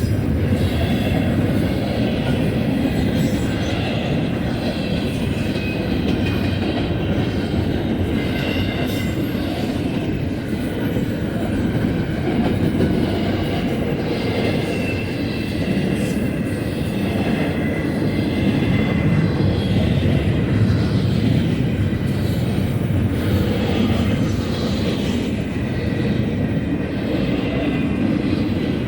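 Freight train of double-stack container cars rolling past: a steady rumble of wheels on the rails, with a faint high squeal from the wheels.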